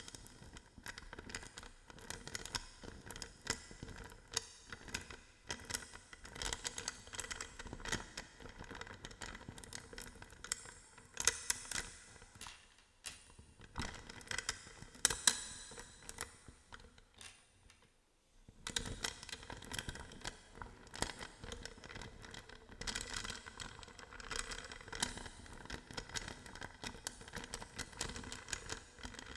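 Hodo balls being handled as ASMR triggers: a dense run of small clicks, scratching and crinkling, with a brief quiet pause about eighteen seconds in.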